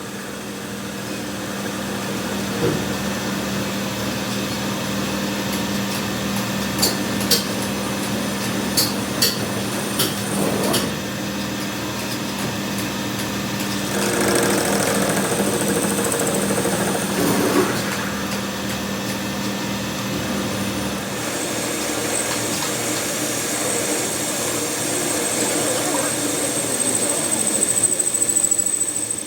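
A workshop machine or power tool running steadily with a hum and a high whine, with several sharp metallic clicks about a quarter of the way in; the hum stops about two-thirds of the way through while the whine carries on.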